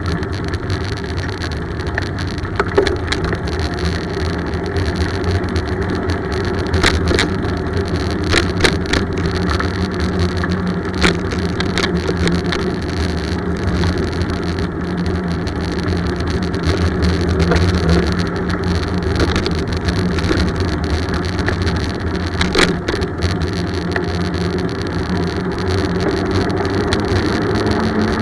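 Steady road and wind rumble from riding a bicycle, with scattered sharp clicks and rattles.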